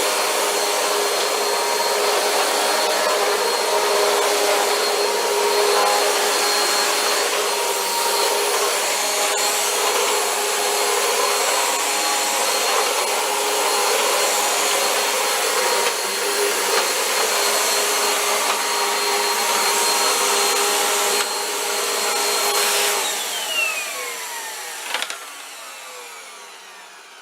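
Vacuum cleaner running steadily on carpet with a high whine, then switched off about three-quarters of the way through, its motor winding down with a falling whine.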